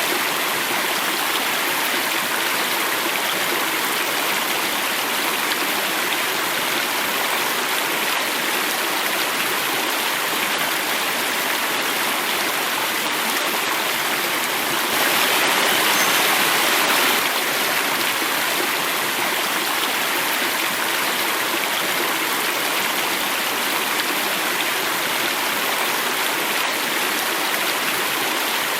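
Water running and falling over rocks in a stream or small cascade: a steady rushing, briefly a little louder about halfway through.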